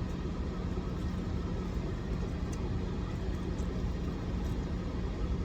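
Steady low rumble and hum of an idling car, heard from inside the cabin, with a few faint clicks.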